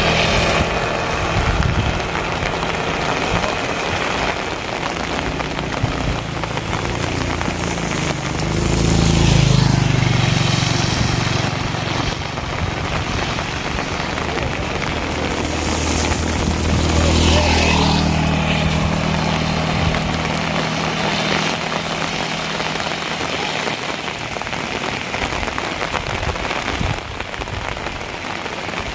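Steady rain falling on hard surfaces, with vehicles passing on a wet road: engine hum and tyre hiss swell and fade near the start, about nine seconds in, and again around sixteen seconds in.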